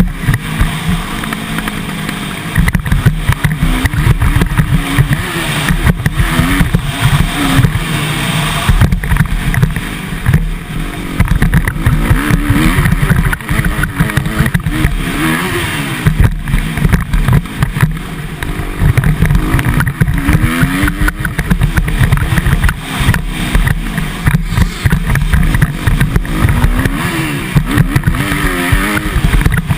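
Motocross dirt bike engine revving up and dropping off again and again as it is ridden round the track, heard from a camera carried on the bike or rider, with heavy low wind rumble and frequent jolts.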